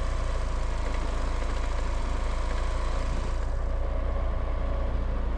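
Steady low drone of a vehicle underway: engine and road noise, with no sudden events.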